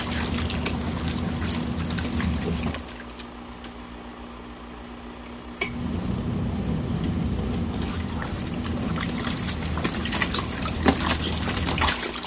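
A compact twin-tub washing machine's wash motor turning the impeller, with water sloshing in the tub. It runs, stops for about three seconds, starts again with a clunk, and cuts off just before the end.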